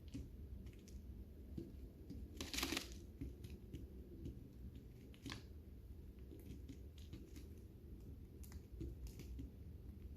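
Lovebirds eating: scattered small crunches and clicks of seed being cracked and picked at, with one louder rustling crunch about two and a half seconds in.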